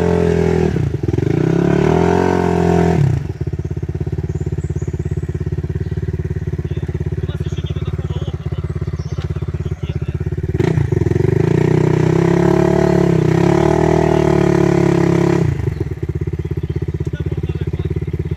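Enduro dirt bike engine idling, with two spells of revving where the pitch rises and falls: in the first three seconds and again from about eleven to fifteen seconds in.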